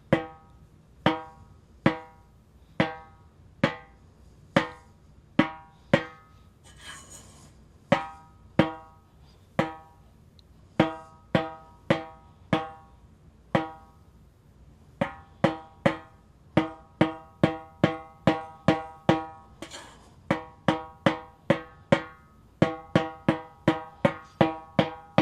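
A 1980s Ludwig Acrolite aluminium-shell snare drum is struck with single strokes, each ringing briefly with a pitched tone, while its heads are tuned and checked for even pitch. The strokes come about a second apart at first, then quicken to two or three a second in the second half.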